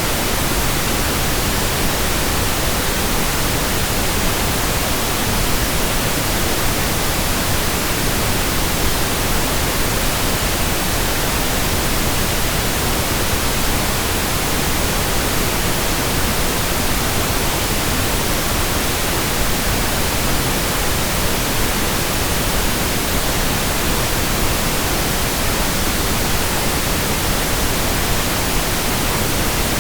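Steady, even pink noise: a constant hiss spread across all pitches, without any change.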